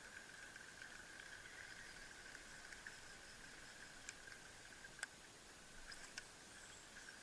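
Near silence: a faint steady high hum, with a few light clicks about four, five and six seconds in.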